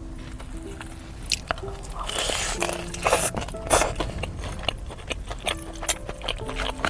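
Crispy fried chicken crunching as it is bitten and chewed, in a run of sharp crackles that are loudest between about two and four seconds in, over soft background music.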